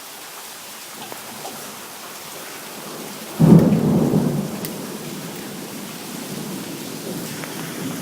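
Steady rain falling, with a sudden clap of thunder about three and a half seconds in that rumbles low and fades over the next couple of seconds.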